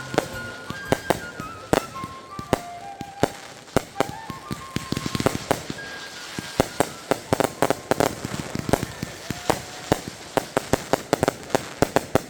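Consumer fireworks going off in a rapid, irregular series of sharp bangs, at times several a second, growing thicker toward the end. Music plays faintly underneath.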